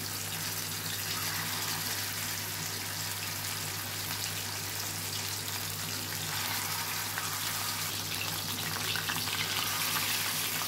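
Masala-coated parrot fish pieces frying in hot oil, giving a steady, even sizzle. A steady low hum runs underneath.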